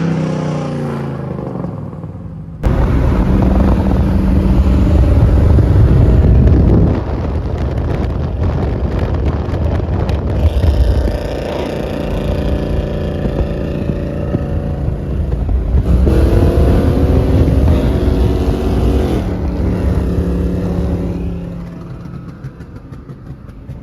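Car engines revving and accelerating hard: a sudden loud burst of engine noise about two and a half seconds in, then long pulls with the engine note rising in pitch and dropping back between them, easing off near the end.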